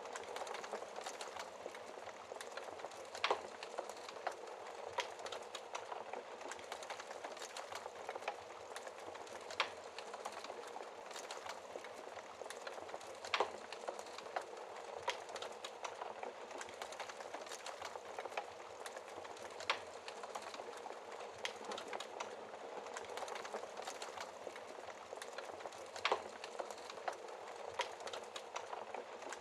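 Wood fire crackling in a fireplace: a steady soft hiss with dense small crackles and a few sharper pops at irregular intervals.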